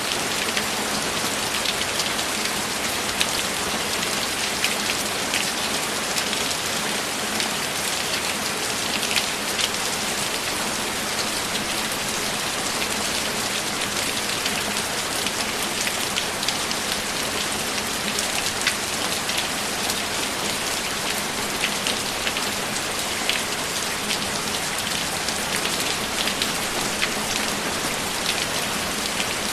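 Steady rain: a continuous hiss with many small, sharp drop taps scattered through it.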